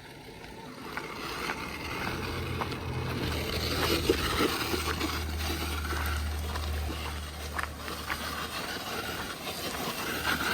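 Vanquish Phoenix VS410 RC rock crawler driving, its brushless motor and drivetrain giving a low steady hum, with a few scattered clicks and knocks from the tyres and chassis on the rocks.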